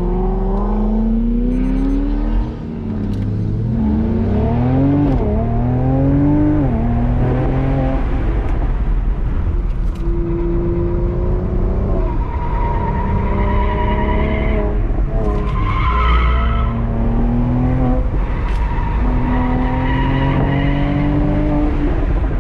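A motor vehicle engine with its pitch rising and falling throughout, mixed with squeal-like tones.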